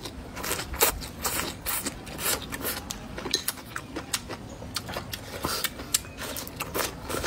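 Close-up chewing of raw green chili peppers: an irregular run of crisp crunches and wet mouth clicks, several a second.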